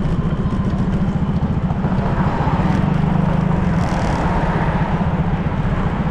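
Honda PCX 160 scooter's single-cylinder engine running steadily under way, with road noise.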